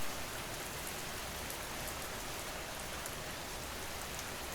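Steady rain: an even hiss with a light patter of individual drops.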